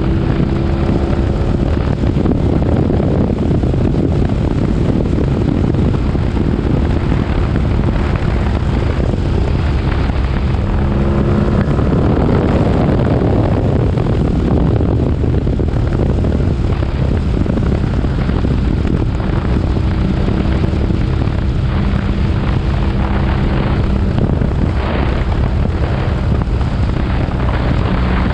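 BMW R nineT's boxer-twin engine running, its engine speed changing, with a rise in pitch about halfway through.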